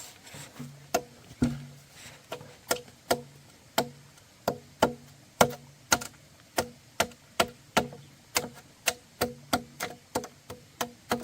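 Repeated sharp strikes of a hand tool on wood, about two a second and unevenly spaced, each followed by a short low ring.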